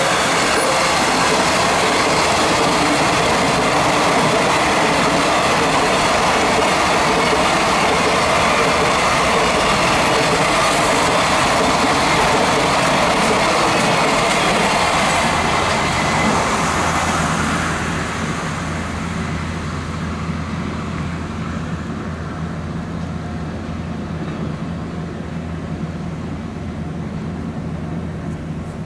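Container wagons of a long electric-hauled freight train running past at speed, with steady, loud noise from wheels on the rails. About 17 seconds in, the level drops and only a quieter, steady low hum remains.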